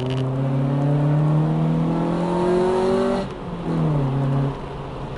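Honda Civic EJ9 engine heard from inside the car on a circuit lap, accelerating with its pitch climbing steadily for about three seconds. It then cuts back suddenly, comes on again briefly with the pitch falling, and drops off once more.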